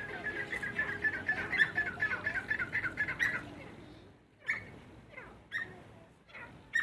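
Small birds chirping: a quick run of chirps for the first three seconds or so, then single chirps about a second apart.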